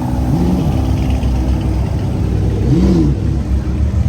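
A car engine running at a low, steady note, blipped twice so the revs jump up and fall back quickly: once about half a second in and again about three seconds in.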